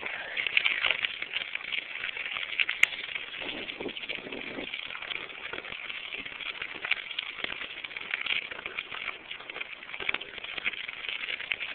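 Birds chirping and chattering steadily, many at once.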